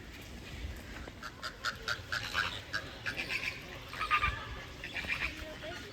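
Ducks calling: a rapid series of short calls that starts about a second in and runs on for several seconds.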